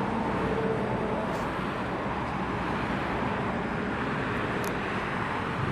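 Steady motorway traffic noise: a continuous rush of vehicles and engines with a faint low engine hum underneath.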